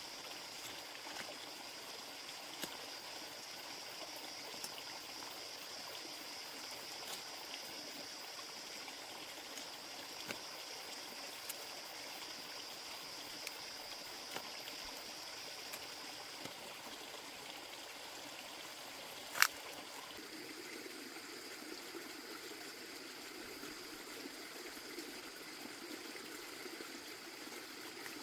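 Water running and trickling steadily, with a high steady hiss over it that stops about two-thirds of the way through. A single sharp click comes shortly after, and the water then sounds lower.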